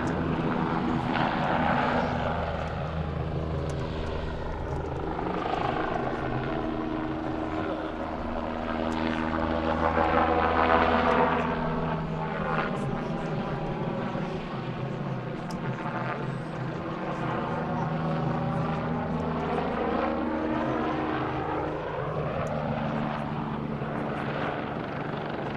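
Aircraft flying a display pass: a steady low engine drone with a sweeping, phasing whoosh that rises and falls as it moves past.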